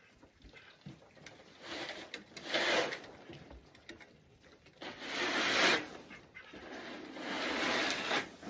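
Three long scraping strokes, each about a second, from a cleaning tool being dragged through bedding or over the floor of an emu pen.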